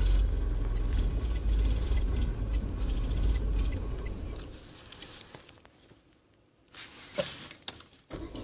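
A small car's 1.2-litre petrol engine running with a low rumble that dies away over a few seconds to near silence, as the stubborn engine stalls. A few sharp clicks follow, and the engine sound starts up again at the very end.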